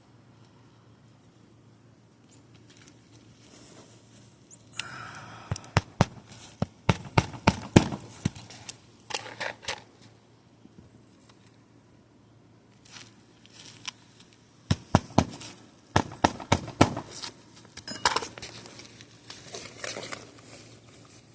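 Asphalt roof shingles being pried up off their seal strips: spells of sharp cracking and snapping with tearing between them. The shingles delaminate and tear as they come up.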